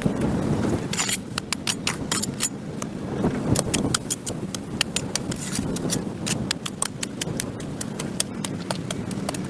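A hand tool scraping and chopping at packed dirt and grass on a concrete sidewalk: many sharp, irregular scrapes and clicks over a low steady rumble.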